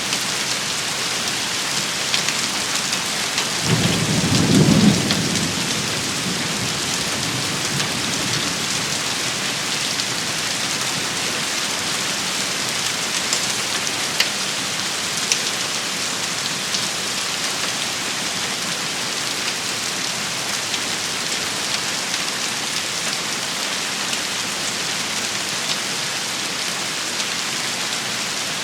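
Steady rain shower hissing, with a short rumble of thunder about four seconds in and a few sharp drop taps scattered through the rain.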